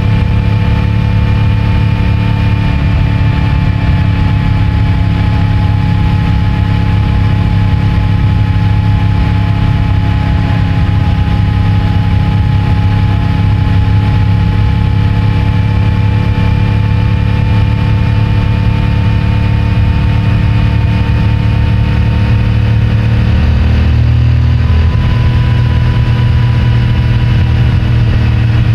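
CFMOTO 450MT's 449 cc parallel-twin engine with its stock exhaust, running steadily while riding at an even throttle. The engine note shifts once about three-quarters of the way through. Recorded from the rider's rear trouser pocket.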